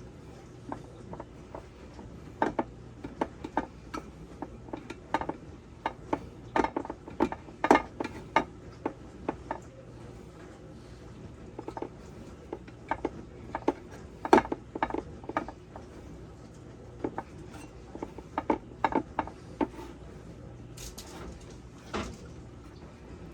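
Irregular light clicks and taps of a metal muffin tin and utensils being handled as pie crust is tucked into the cups, in runs of quick taps with short pauses between.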